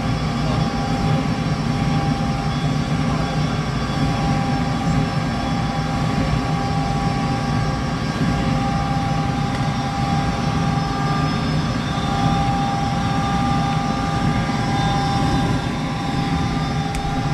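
Gas furnace running with its burners lit: a steady roar of flame and fan with a few steady humming tones.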